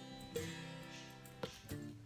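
Quiet background acoustic guitar music: a few strummed chords left ringing.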